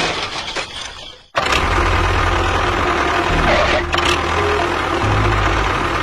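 A small motor running steadily with a rumble. The sound fades away about a second in and then cuts back in abruptly.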